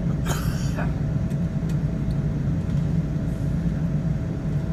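Cabin noise inside a Boeing 777-200ER on the ground after landing: a steady low rumble from the engines and airframe with a faint steady whine over it. A brief hissing rattle comes about half a second in.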